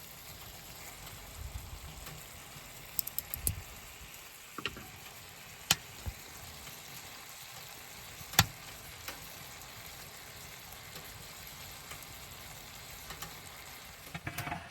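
Food sizzling as it cooks, a steady frying hiss, with a handful of sharp clicks and knocks scattered through it, the loudest about eight seconds in.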